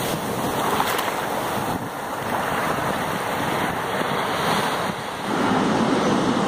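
Steady rushing noise of a suburban local train in motion, heavy with wind buffeting the microphone.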